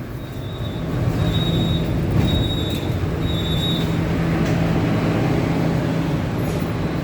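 Interior running noise of a Bombardier Movia metro train slowing into a terminus station: a steady low motor hum over a rushing wheel-and-rail noise. Four short high-pitched tones sound about a second apart in the first few seconds.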